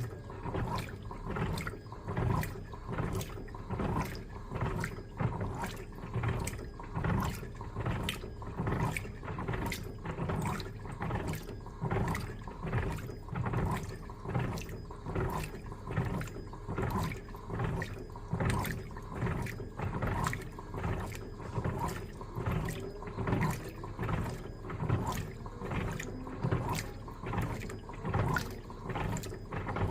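Electrolux LTA15 top-loading washing machine agitating a load of bed linen: water sloshing in the tub in a steady, even rhythm, slightly more than once a second.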